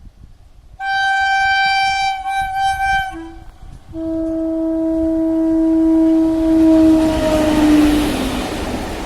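Indian Railways express train locomotive sounding its horn: a higher-pitched blast about a second in lasting two seconds, a short blip, then a longer, lower blast that falls in pitch as the locomotive passes. The rush of the approaching train grows louder toward the end.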